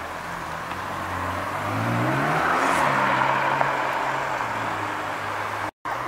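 Supercar engine accelerating: a steady low engine note rises in pitch about two seconds in as the car pulls away, then holds steady. The sound drops out for a moment near the end.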